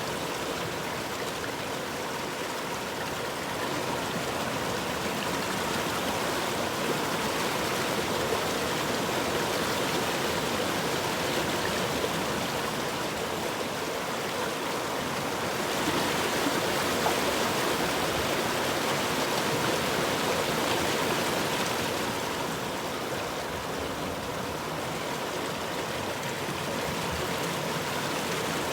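Flowing river water: a steady rushing that swells and eases slightly in level.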